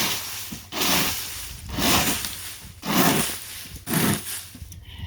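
Repeated swishing, scraping strokes about once a second, as the chicken house floor is cleaned.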